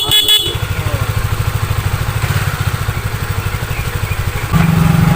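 Rebuilt Yamaha F1ZR two-stroke motorcycle engine running at idle, with a pulsed high beeping that stops about half a second in. About four and a half seconds in, the engine note steps up and gets louder.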